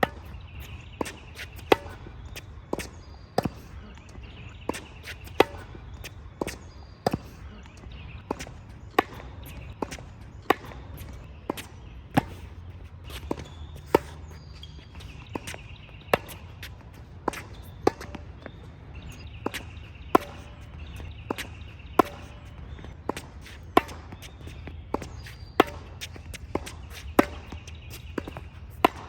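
Tennis balls struck by racket strings in a volley exchange, a sharp pop about every second, some in quick pairs. Birds chirp faintly in the background over a low steady rumble.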